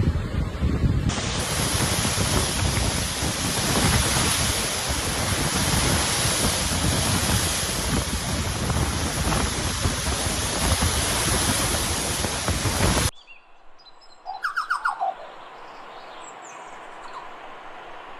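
Strong wind rushing through forest trees, a loud steady rush that cuts off suddenly about thirteen seconds in. It is followed by a few short, falling bird chirps against a quiet background.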